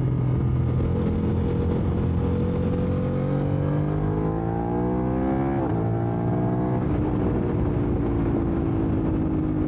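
Aprilia RS660's parallel-twin engine through an SC-Project SC1-R full exhaust, running steadily and then revving higher under acceleration. About five and a half seconds in its pitch drops sharply, and it settles to a lower steady note that slowly falls.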